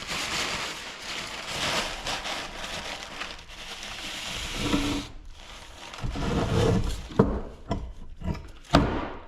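Scraping and rubbing for about five seconds, then a clatter of handling with several sharp knocks, the loudest near the end, as the oily scrap compressor is worked on around its bolts.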